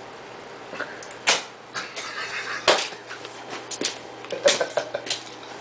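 A few sharp knocks and clattering handling noises, the loudest about a second in, near the three-second mark and about four and a half seconds in, with some scraping between them.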